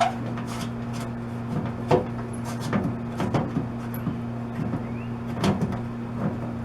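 Scattered metallic clicks and knocks from hand tools and bolts being worked on a tailgate latch, irregular, the loudest about two seconds in and near the middle of the second half, over a steady low hum.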